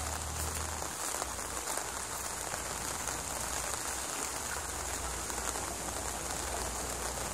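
Steady rain falling on the ground and vegetation, an even hiss with a low rumble underneath.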